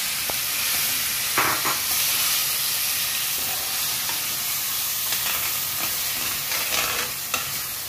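Curd-marinated chicken sizzling steadily in hot sunflower oil with cumin seeds in a stainless-steel pan, with a spoon scraping and knocking now and then as the chicken is pushed from the bowl and stirred.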